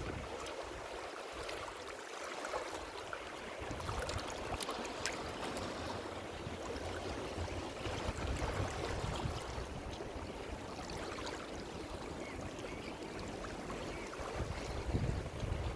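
Ocean surf: a steady wash of waves with gentle swells in loudness, a deeper rumble of breaking water filling in about four seconds in.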